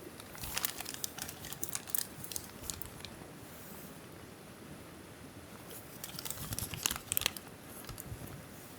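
Crinkling and crumpling of something being handled, in two bouts of crackly noise, the second a few seconds after the first.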